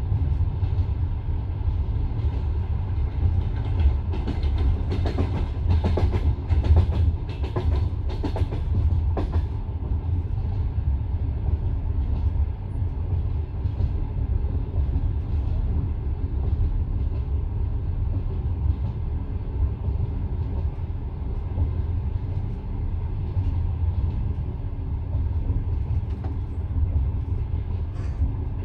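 Passenger train running at speed, heard from inside the carriage: a steady low rumble of wheels on rails. Between about four and ten seconds in comes a quick run of clickety-clack as the wheels pass over the rail joints.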